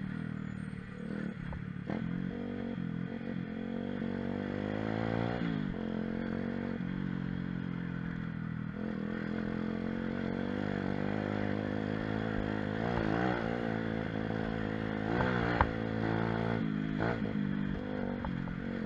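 Pit bike's small engine running under way, its pitch climbing and falling as the throttle is opened and closed. A couple of sharp knocks come near the end.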